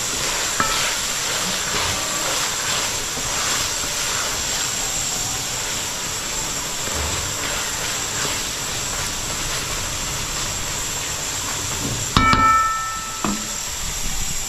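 Curry and green pigeon peas frying in a pot, a steady sizzle as the liquid cooks down. About twelve seconds in, a sharp knock rings for about a second.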